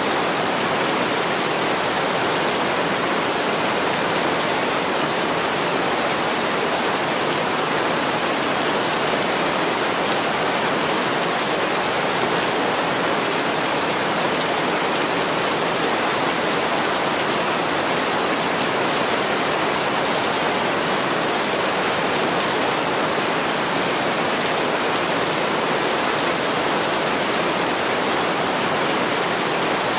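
Heavy rain pouring steadily on a window, an even unbroken hiss.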